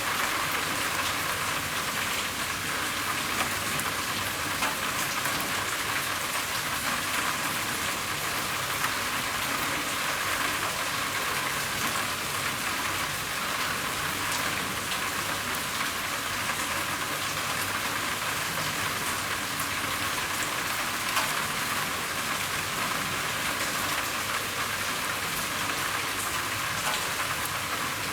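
Steady rain falling on a roof: a constant even hiss with scattered individual drops ticking through it.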